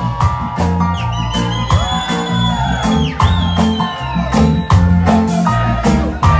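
Live reggae band playing an instrumental passage: a steady bass line and a regular drum beat, with a lead melody that slides up and down in pitch in the middle of the passage.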